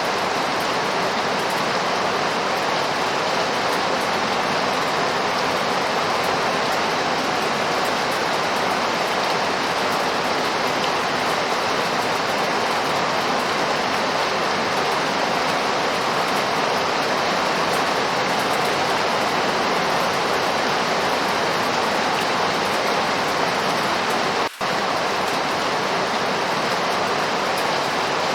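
Steady rainfall: a dense, even hiss with no change in intensity. It cuts out for an instant about 24 seconds in.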